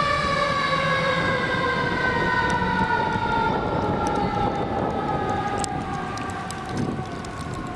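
Emergency vehicle siren winding down in one long, slow falling tone, with vehicle rumble underneath.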